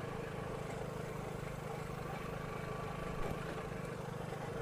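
Vespa scooter engine running steadily at low speed, an even hum with light noise over it.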